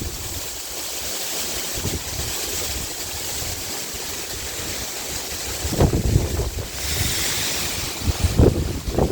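Sea wind blowing, a steady rushing hiss, with gusts buffeting the microphone in low rumbles about six seconds in and again near the end.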